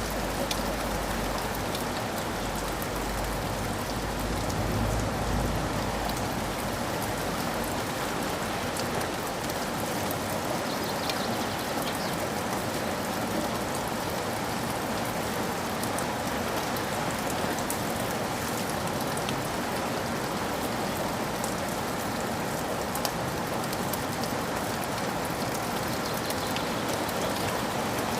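Steady rain falling, with fine patter of drops on surfaces. A low rumble sits under it in the first few seconds, in keeping with soft distant thunder.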